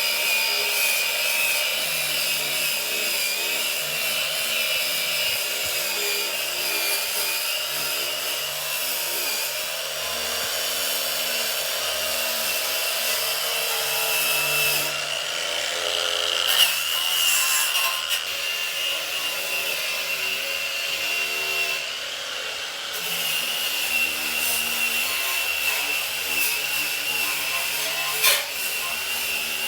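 A power tool runs steadily against a workpiece with a high, even whine. Two brief knocks come through, one about halfway and one near the end.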